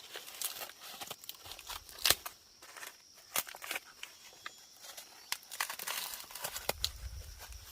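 Dry plant material crackling, crinkling and tearing by hand, with a run of sharp snaps; the loudest come about two and three and a half seconds in.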